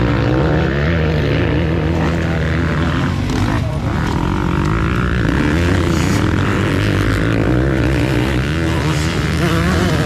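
Motocross dirt bike engines running and revving, their pitch rising and falling unevenly.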